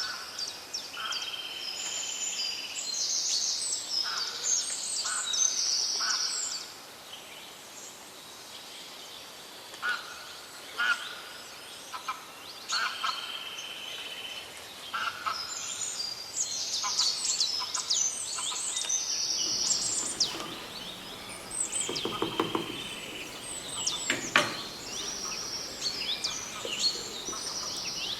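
Small birds chirping and trilling repeatedly in overlapping high calls, with a few short sharp clicks in between.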